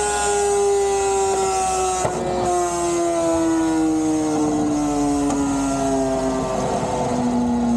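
Motorcycle engine running on a chassis dyno, its pitch falling slowly and steadily as the revs come down.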